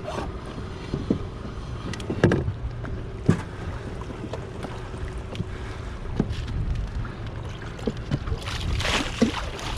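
Low wind rumble on the microphone with scattered knocks and clunks, and a louder rushing hiss building near the end.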